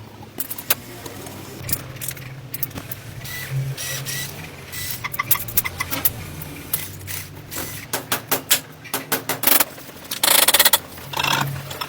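Metal tools and engine parts clicking and clinking during hand work on a motorcycle engine, in irregular runs of sharp clicks. There is a short burst of noise about ten seconds in.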